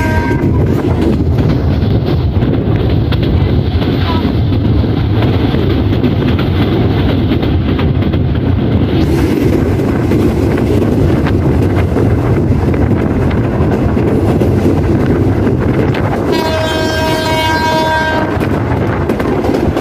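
Steady rumble and wheel-on-rail noise of a passenger train running at speed, heard from an open door of a coach. The diesel locomotive's horn, a chord of several steady tones, ends about half a second in and sounds again for about two seconds near the end.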